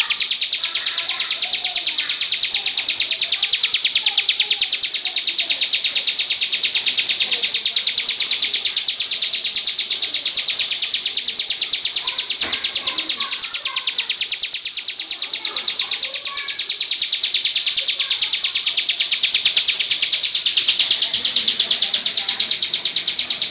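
Songbird's high, rapid, evenly pulsed trill held without a break: a masteran tutor call played to train murai. Fainter, lower bird calls sound beneath it.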